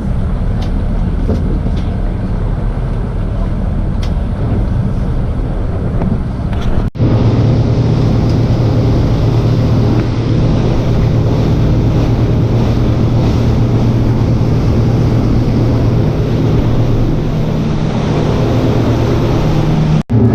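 Steady road and engine drone of a car driving at highway speed. It breaks off abruptly twice, about seven seconds in and just before the end, and is a little louder and deeper after the first break.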